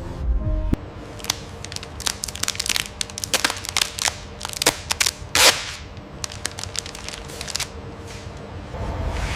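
Irregular crackling and snapping: many sharp clicks at uneven intervals over a faint steady hum, the loudest snap about five and a half seconds in.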